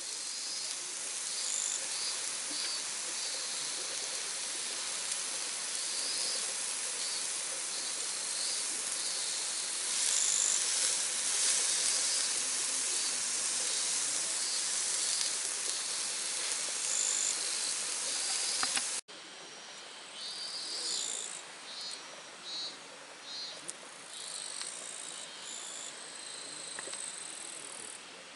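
Insects chirping in short repeated trills over a steady high hiss. The sound cuts off abruptly about two-thirds of the way through and resumes with a softer hiss and the chirping still going.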